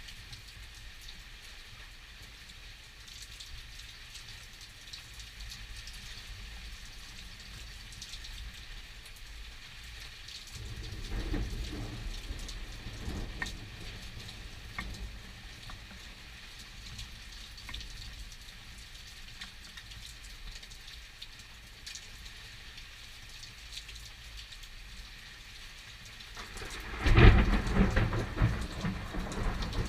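Steady rain falling during a thunderstorm, with a low rumble of thunder about eleven seconds in and a much louder, sharper thunderclap near the end that rumbles on.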